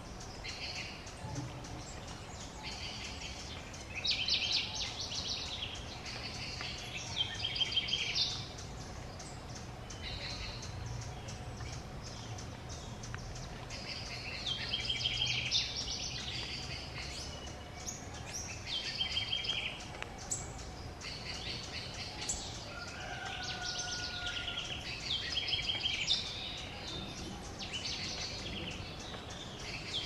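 Bird calls: bouts of rapid chattering notes, repeated every few seconds, over a steady low background hum.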